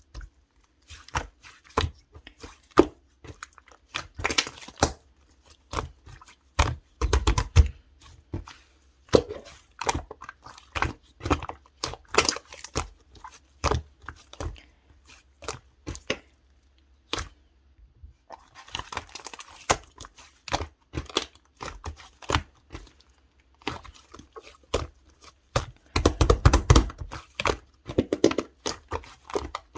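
Pink clay-mixed slime being squished, folded and stretched by hand, giving a running series of sticky clicks and pops. There is a short pause in the middle and a dense flurry of pops near the end.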